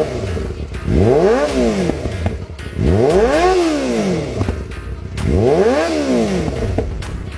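A superbike's engine is free-revved three times from idle through its exhaust. Each rev climbs quickly and falls back to idle in about a second and a half, roughly every two and a half seconds.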